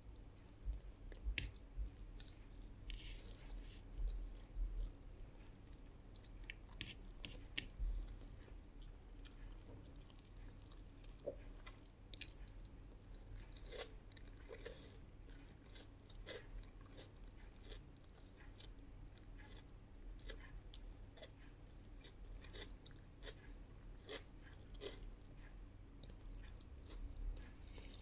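A person chewing a meal of fried fish, fried egg, rice and tomato close to the microphone: irregular short clicks and soft crunches, with a few low thumps.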